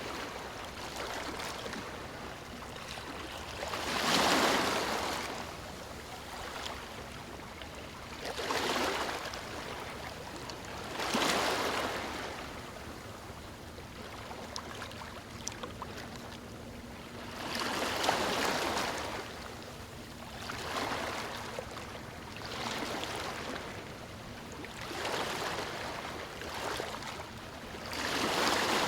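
Small waves breaking onto a stony shore, each wash swelling and falling away every few seconds over a steady background of lapping water.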